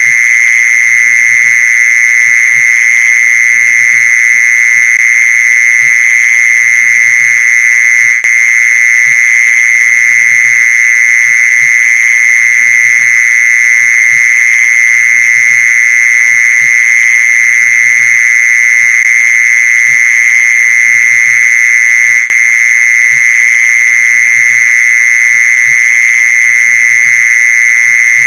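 Mole cricket calling song: one loud, continuous, high trill held at a steady pitch without a break. It is a male's call, used here as a lure for mole crickets.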